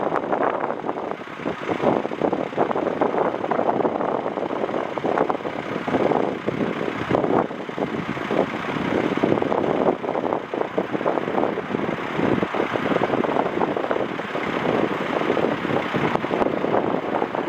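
Strong gusty wind buffeting the microphone: a steady rushing noise with constant rapid fluttering.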